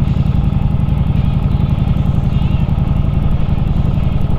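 Harley-Davidson Street Rod 750's V-twin engine running at a steady, even pace while the motorcycle is ridden, with no revving.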